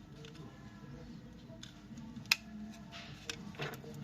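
Sharp clicks and light taps of small hard objects, one loud click about two seconds in and several quicker ones near the end, over a low steady background murmur.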